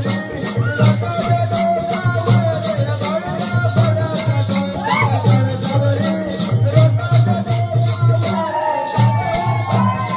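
Traditional folk music with a fast, steady rattling rhythm over a repeating drum beat and a melody with sliding pitches.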